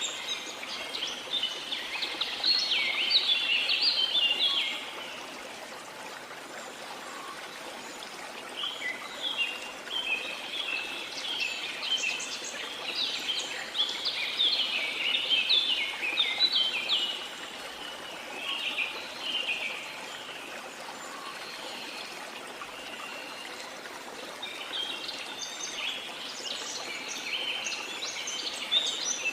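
Small songbirds singing in bouts of rapid chirping notes, in about four spells with pauses between them, over a steady wash of sea water.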